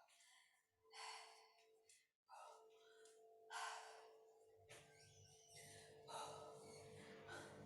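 A woman's faint, heavy exhalations, three breaths a couple of seconds apart, in time with repetitions of a weighted overhead press. A faint steady hum sits underneath.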